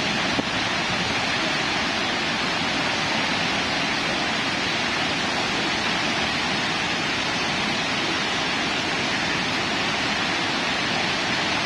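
Steady, loud rush of a waterfall's falling water, an even noise with no breaks.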